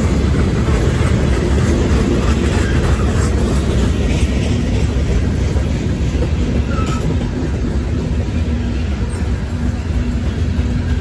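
Freight cars of a long mixed manifest train rolling past at close range: a steady, loud rumble of steel wheels on the rails.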